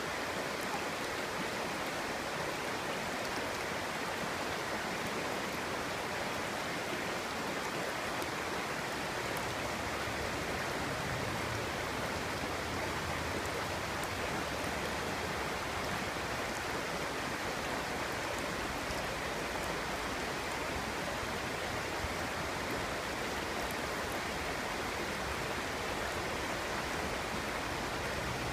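Clear stream babbling steadily, an even, unbroken rush of running water, with a faint low rumble joining about a third of the way in.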